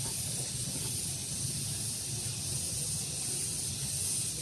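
Steady outdoor daytime ambience: a continuous high-pitched hiss over a low rumble of breeze on the microphone.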